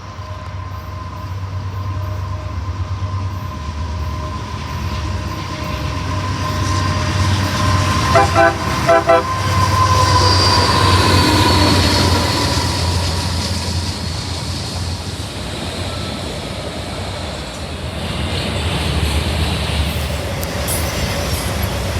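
Diesel freight train running past, a low locomotive rumble under wheel noise, with two short horn blasts about eight seconds in.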